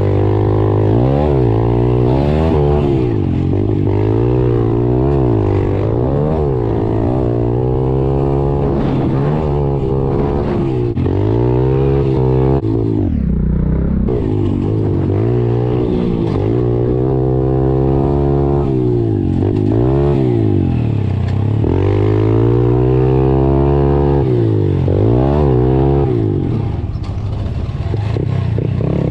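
Pit bike engine revving up and down over and over as it is ridden, the pitch climbing and falling every second or two, with a sharp drop about thirteen seconds in.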